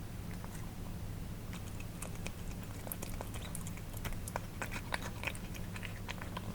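Cats eating wet food: irregular wet smacking and chewing clicks of tongue and teeth, sparse at first and busier from about a second and a half in, over a steady low hum.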